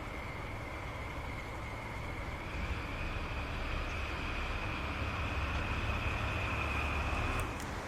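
A vehicle engine running steadily with a constant high whine over a low rumble, growing louder about two and a half seconds in and cutting off abruptly near the end.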